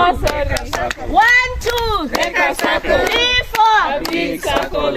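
A group of people chanting and shouting together in rising-and-falling calls, with hand claps.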